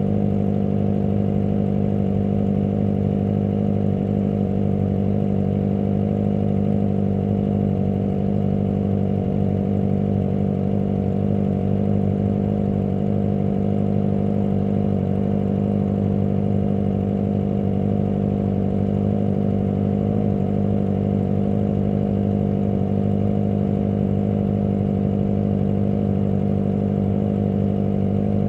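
Kawasaki ZX25R's 249 cc inline-four engine running at a steady, unchanging engine speed, with no revving up or down.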